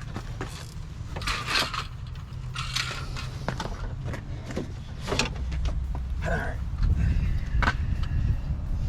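Scattered clicks, scrapes and rattles of metal and plastic parts being worked loose inside a pickup truck's door, over a steady low rumble.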